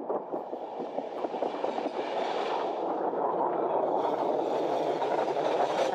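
Passenger train running over the rails, heard from an open carriage window: a steady rumble of wheels with rapid clattering over rail joints and points, and a rushing hiss that swells about two seconds in.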